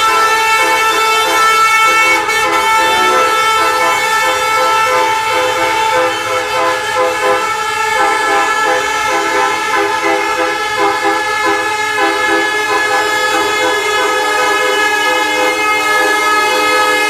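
Several truck horns honking at once, held on continuously as overlapping steady tones, with the chord of pitches changing a couple of times.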